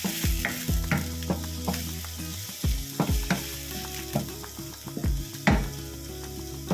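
Chopped peppers, onion and garlic sizzling in hot cooking oil as they are stirred, the spoon knocking against the pan at irregular intervals, a couple of times a second.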